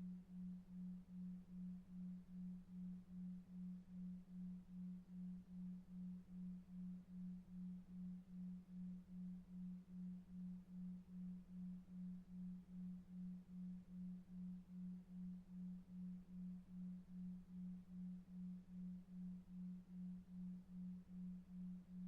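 A low pure tone pulsing evenly about two and a half times a second, a 2.5 Hz delta-wave sleep beat, over faint brown noise.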